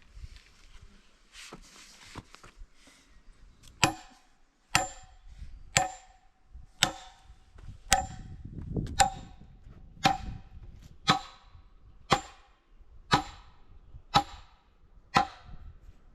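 Sharp strikes repeating about once a second, starting about four seconds in, each with a short metallic ring.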